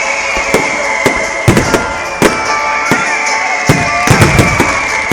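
Fireworks display: a rapid, irregular string of loud bangs, about two to three a second and bunching together near the end, over a steady high whistling tone that slowly falls in pitch.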